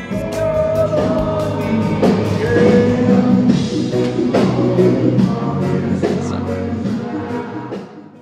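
Live reggae band playing with a sung vocal line of long held notes over the band, fading down near the end.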